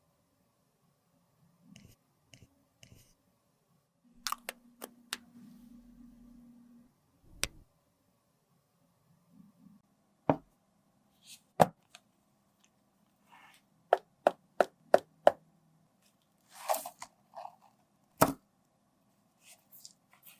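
Sharp clicks and taps of makeup cases and tools being handled and set down, about a dozen separate ticks with a quick run of five near the middle. A short scraping rustle comes shortly before the last loud tap.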